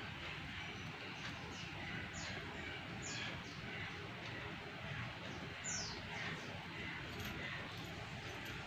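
Small birds chirping: a string of short, high chirps, each falling quickly in pitch, coming irregularly about once a second, the loudest about six seconds in. Under them runs a steady low hiss.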